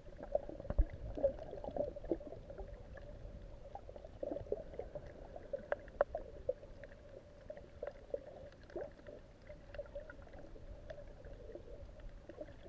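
Underwater sound picked up by the camera, with many scattered sharp clicks and crackles over a steady hum.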